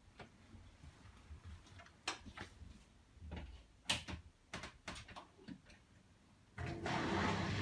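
Bosch WAE24162GB washing machine being started on a rinse cycle: a series of light clicks and knocks, then about six and a half seconds in a steady rushing hum starts up suddenly as the machine begins running.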